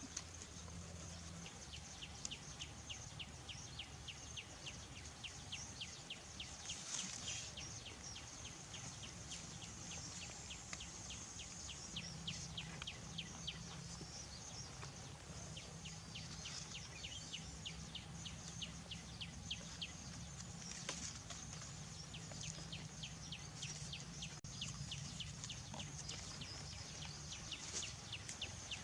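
Outdoor insect sounds: a steady high buzz with a rapid, evenly repeating ticking chirp, over a low background hum.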